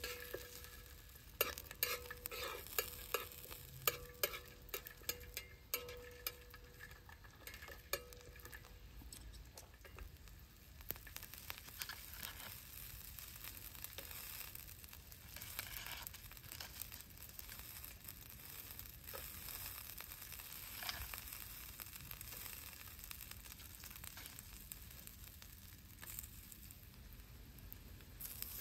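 Garlic cloves and green onions sizzling in oil on a round steel griddle plate over a portable camp stove, a steady frying hiss. Sharp taps and clicks of a utensil on the plate come thickly in the first ten seconds or so, then only now and then.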